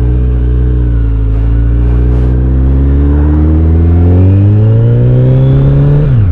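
Kawasaki Z900 inline-four running through an Akrapovic exhaust with its dB killer fitted, heard on board. The engine note climbs steadily in pitch as the bike accelerates, then drops sharply near the end at a gear change.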